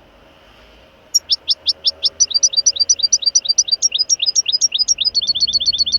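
A small songbird singing: a fast, even run of short, high chirps, each sliding downward, starting about a second in and quickening to around five or six a second.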